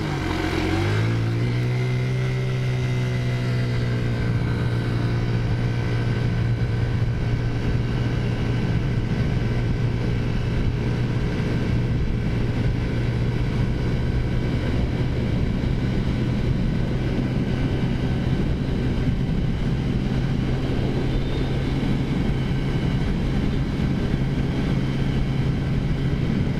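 Taotao 50cc four-stroke scooter engine climbing in pitch for about the first second as it accelerates, then holding a steady high drone at cruising speed.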